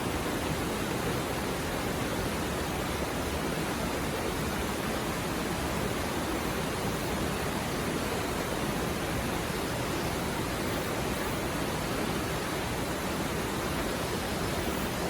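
River stream flowing over rocks: a steady, even rush of water that does not change.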